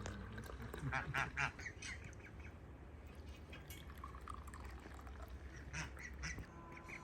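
Farmyard fowl, most likely ducks, calling: a quick run of three short harsh calls about a second in, and a couple more near six seconds, over a low steady rumble.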